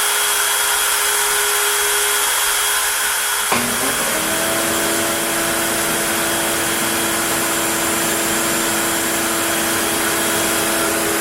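CNC router spindle running at speed, a loud steady hiss with a hum. About three and a half seconds in there is a click, and the hum drops to a slightly lower pitch.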